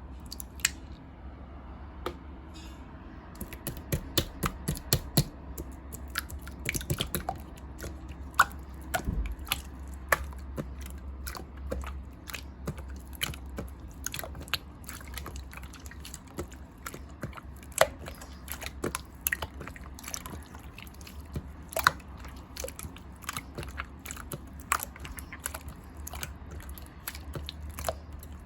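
Slime being squished and pressed by hand, giving irregular sticky wet clicks and pops over a low steady hum.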